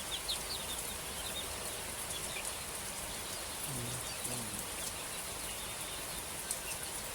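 Chicks peeping in short high chirps, mostly in the first second, with a few lower calls about halfway, over a steady high hiss.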